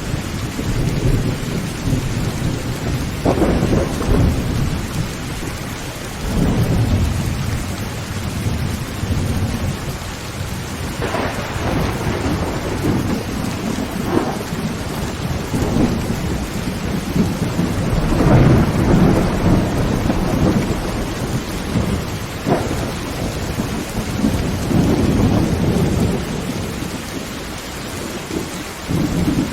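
Heavy rain falling on a tin tent roof, with thunder rumbling over and over in long swells every few seconds.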